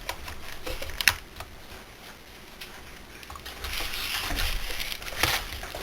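Workshop handling noises from working on a small chainsaw: a sharp click about a second in, a spell of rustling and scraping, and another click near the end.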